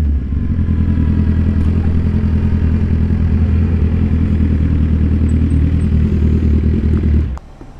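Sportbike engine running at a steady pitch while riding, then cutting off suddenly near the end.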